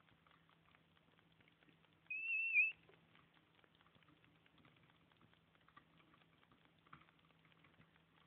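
A single short, high-pitched squeak, wavering in pitch and lasting about half a second, about two seconds in, over a faint low hum and faint scattered ticking.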